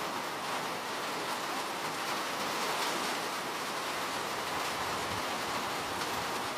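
Steady, even rain, a continuous hiss of falling raindrops with no distinct drips or thunder standing out.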